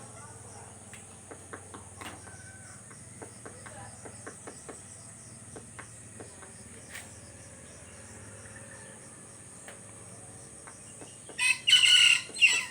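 A rooster crows once, loudly, near the end, over a steady high drone of insects and scattered faint clicks.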